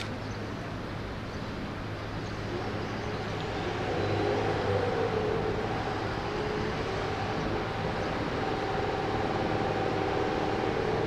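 M250 series Super Rail Cargo electric freight train approaching from a distance: a steady rumble of running noise carrying a wavering hum, growing louder about four seconds in.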